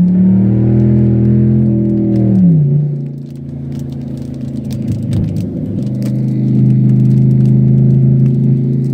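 Cadillac STS-V's supercharged V8 pulling with its pitch rising, then dropping sharply about two and a half seconds in as the driver shifts or lifts; a quieter few seconds with scattered crackling and clicking follow, then the engine settles into a steady drone.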